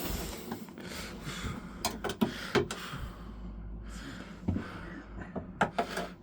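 Scattered sharp clicks and knocks of hard objects being handled, clustered about two seconds in and again near the end, with soft rushes of breath-like noise between them.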